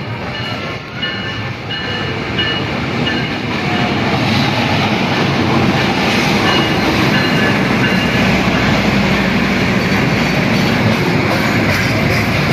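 Passenger train running through a station: a steady rumble of wheels on rail that grows louder over the first few seconds and then holds, with faint, brief high squeals early on.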